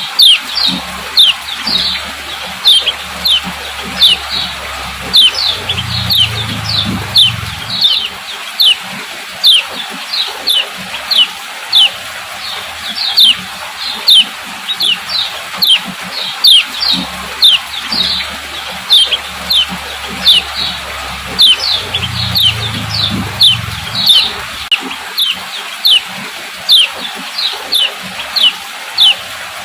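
Female kecial kuning calling 'ciak ciak': short, sharp, downward chirps, about two a second, repeated steadily as a stimulus call to get male kecials singing. A low rumble comes in twice for a couple of seconds under the chirps.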